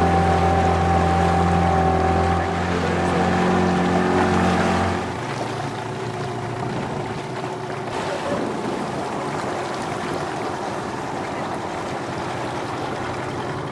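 Boat outboard motor running at a steady pitch, stopping abruptly about five seconds in, then wind and water noise.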